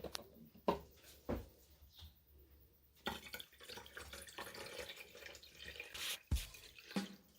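Liquid trickling and dripping, with a few sharp clicks early on and a knock near the end.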